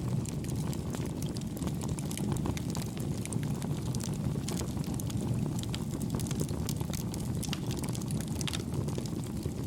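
Campfire burning with a steady low rumble of flames and frequent small, soft crackles and pops.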